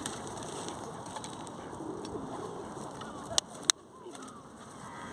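Pigeons cooing in low, repeated calls, with two sharp clicks about three and a half seconds in.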